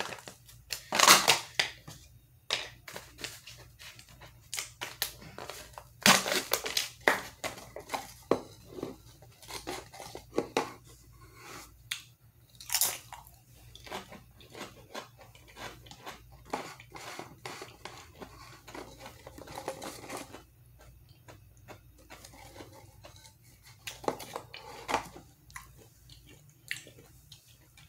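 A Pringles can being opened near the start, then a person biting and chewing Pringles potato crisps: irregular crisp crunches and chewing, the sharpest bites about six and thirteen seconds in.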